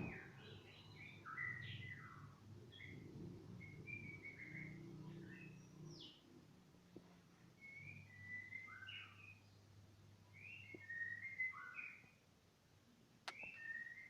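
Lovebirds chirping in short, repeated twittering phrases, faint. A sharp click about 13 seconds in.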